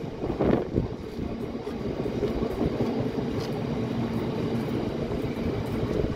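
Electric multiple-unit passenger train running on the track below, a steady rumble with a steady hum that sets in about two seconds in.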